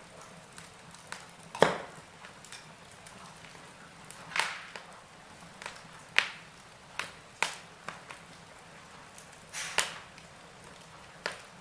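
Wood fire in a fireplace crackling, with sharp, irregular pops every second or two over a faint steady hiss.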